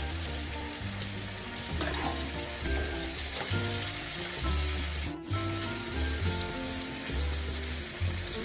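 Pork, tomato and chilli sizzling steadily as they fry in a pan, stirred with a spatula, with the sound cutting out for an instant about five seconds in. Background music with a low bass line plays underneath.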